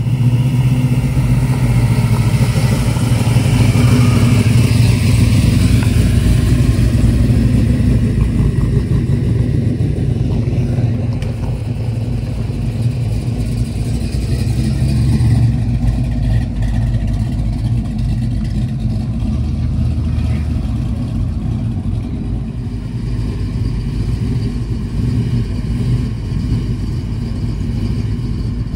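Chevrolet Camaro's engine pulling away under acceleration, rising in pitch over the first few seconds, then running steadily as the car drives on.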